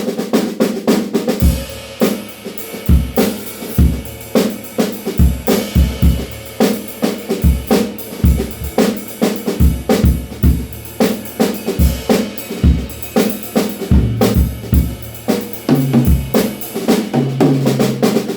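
DW Frequent Flyer drum kit played in a steady groove: bass drum, snare and cymbals, with tom hits ringing near the end.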